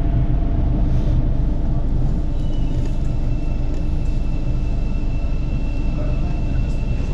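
Passenger train running, a steady low rumble with a high, steady whine that comes in about two and a half seconds in.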